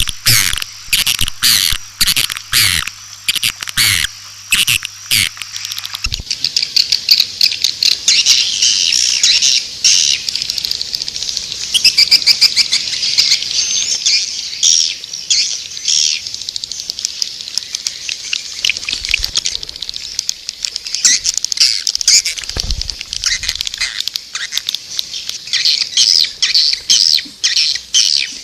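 Recorded calls of white-nest swiftlets: rapid, high twittering chirps. About six seconds in, the separate sharp chirps over a low hum give way to a dense, continuous chatter. This is a swiftlet lure call, played to draw the birds into a nesting house.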